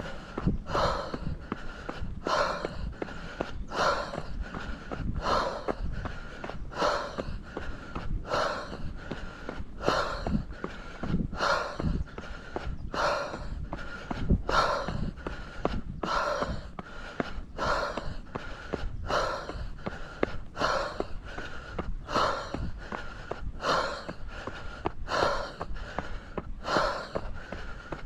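A runner's hard, rhythmic breathing while climbing a steep trail, one loud breath about every 0.7 s, from heavy exertion. A steady low rumble runs underneath.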